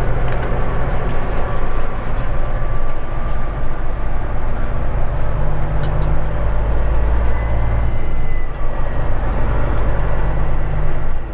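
Straight-piped Caterpillar 3406E diesel engine running steadily, with a deep, even low drone.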